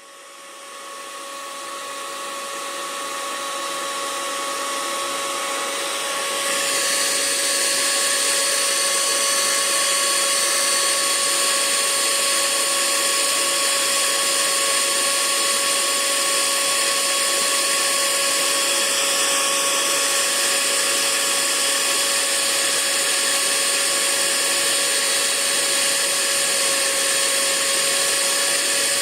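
Hair dryer running steadily, a motor whine over rushing air. It rises from silence over the first few seconds and gets louder about six seconds in.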